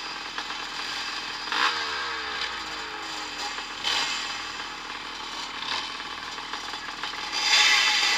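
Vintage motocross bikes racing on the track, their engines revving and backing off. One passes about a second and a half in with a falling pitch, and another comes close and is loudest near the end.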